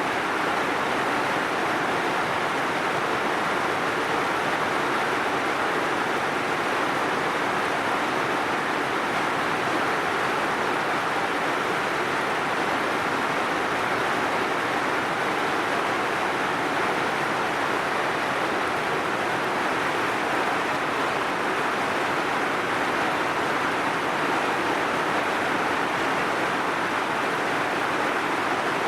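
Heavy rain falling steadily: an even, unbroken hiss with no separate drops or pauses.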